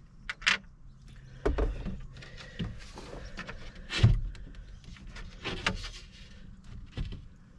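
Irregular knocks, clunks and scrapes of wooden panels and tools being handled during cabinet building, with the loudest knock about four seconds in.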